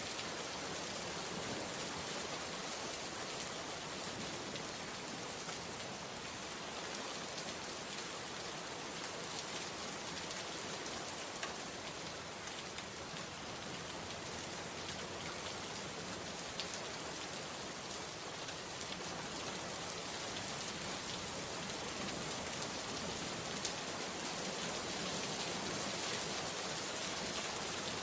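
Steady rain falling, an even hiss with scattered individual drop ticks, growing slightly louder near the end.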